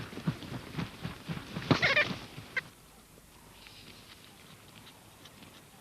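Vultures squabbling at a carcass: a flurry of short, harsh calls and squeals, loudest about two seconds in, then dying down to a quieter stretch.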